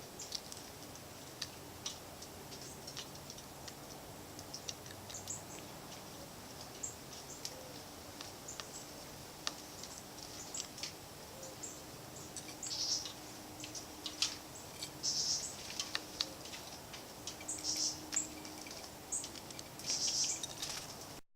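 Small songbirds chirping at a feeder: many short, sharp high chirps and clicks, with louder bursts of calls every two or three seconds in the second half, over a faint steady low hum.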